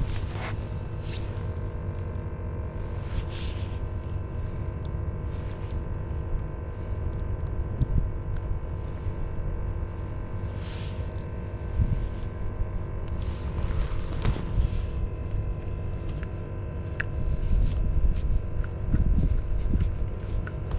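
A steady low rumble with a constant motor hum holding one pitch, broken by a few scattered clicks and knocks.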